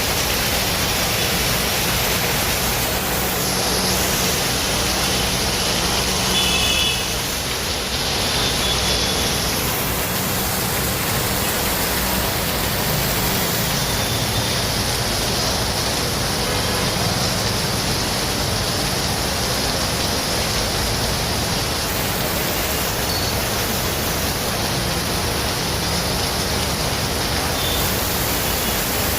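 Heavy rain falling, a steady loud hiss that does not let up.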